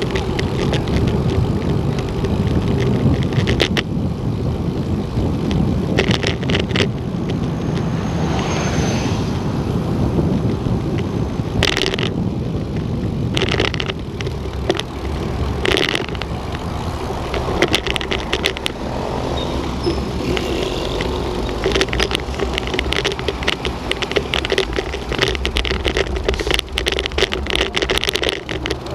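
A vehicle running, heard from on board: a steady low rumble with a faint hum and scattered rattles and clicks.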